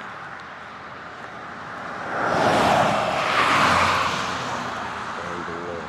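A vehicle passing by on the road, its noise swelling for a couple of seconds midway and then fading away.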